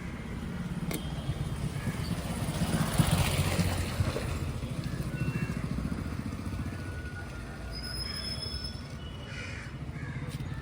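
A vehicle engine running with a steady low hum, swelling louder about three seconds in as if passing close, then easing back.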